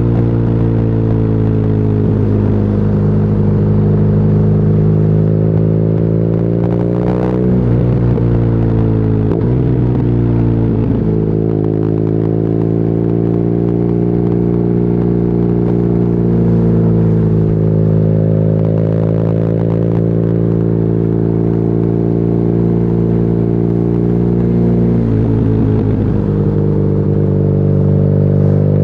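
BMW R nineT's air/oil-cooled boxer twin running through an Akrapovic exhaust under way, at mostly steady revs. The note dips and climbs again a few times, around a quarter to a third of the way in and again near the end, with a brief sharp pop about seven seconds in.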